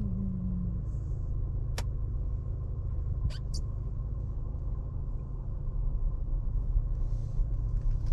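Steady low rumble of a car's engine and tyres heard from inside the cabin while driving slowly, with a few sharp clicks about two and three and a half seconds in.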